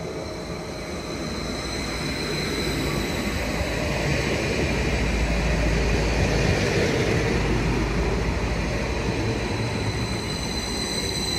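Greater Anglia electric multiple-unit passenger train passing through the station at speed: rumble and wheel-on-rail noise build as it approaches, are loudest about halfway through as the cars run past, then ease slightly. A thin, steady high whine runs under it.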